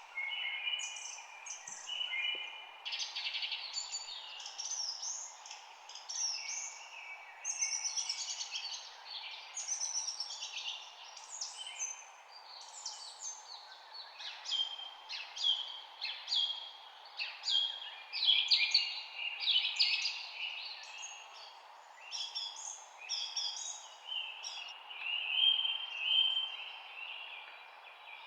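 Several birds chirping and singing, with quick overlapping chirps and trills throughout, over a steady low background hiss.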